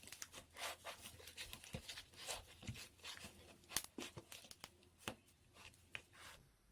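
Hands kneading and stretching slime, pink slime with cloud slime mixed in, making faint irregular sticky crackles, clicks and small pops; the handling stops shortly before the end.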